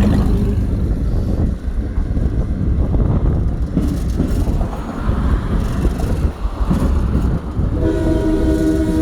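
Train rolling along the track with a steady low rumble and rail noise, heard from an open caboose. Near the end the locomotive's air horn starts sounding a steady multi-note chord.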